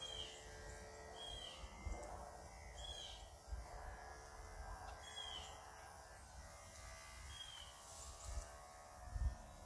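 A bird calling over and over, short falling chirps every second or two, faint against outdoor background noise. A low bump comes near the end.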